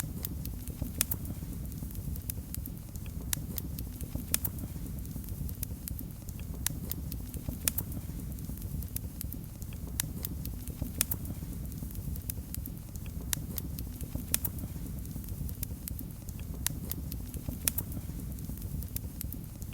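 Wood fire burning in a fireplace: a steady low rumble of the flames with sharp crackles and pops at irregular moments, several each second.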